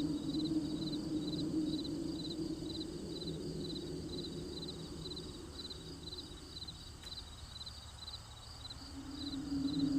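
Crickets chirping in a steady rhythm, about two pulsed chirps a second, over a low steady hum that fades away in the middle and swells back near the end.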